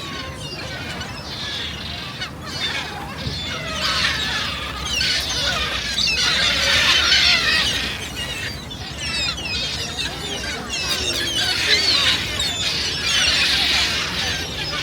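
A large flock of gulls calling all at once, a dense chorus of shrill squeals and squawks that swells and eases in waves.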